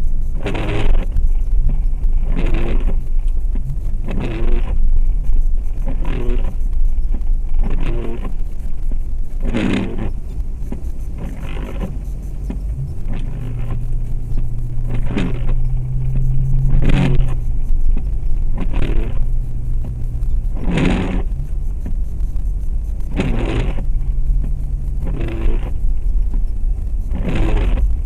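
Inside the cabin of a 2004 Jeep Grand Cherokee with a 4.7 L V8, driving on snowy roads: a steady low engine and road rumble, with a short swishing or rattling sound repeating about every two seconds. Around the middle the engine note grows stronger and rises slightly in pitch.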